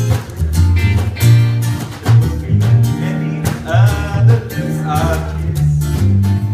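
Jazz band playing an instrumental passage: plucked guitar over a bass line that steps from note to note, with a wavering melodic line higher up partway through.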